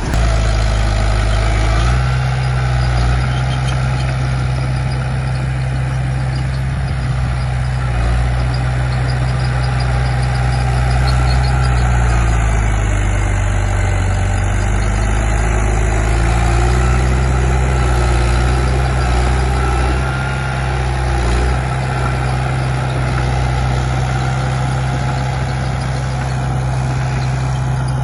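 Heavy diesel engine of an earthmoving machine running steadily. Its pitch sags and recovers for a few seconds midway, and again briefly a little later.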